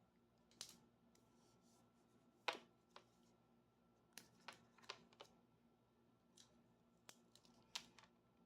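Scattered light clicks and taps of items and packaging being handled during an unboxing, about ten in all at an irregular pace, the loudest about two and a half seconds in.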